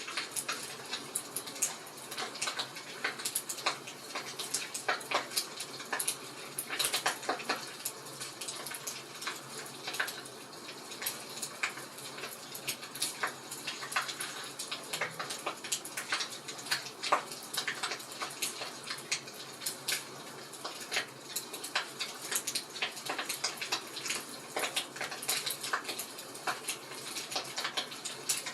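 Fire in a fireplace crackling steadily, with frequent irregular pops and snaps over a soft hiss.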